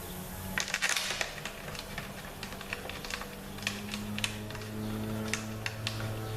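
Irregular light metallic clicks and clinks of steel Torx pan bolts and a hand tool being handled while fitting a ZF 6HP26 transmission's oil pan, with a dense cluster of clicks about half a second in. A steady low hum runs underneath.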